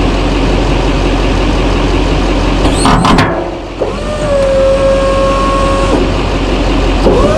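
A diesel pickup engine runs steadily; a few sharp clicks come about three seconds in. Then an electric motor whine rises and settles to a steady pitch for about two seconds, and starts again near the end: typical of a snow plow's electric-hydraulic pump moving the plow.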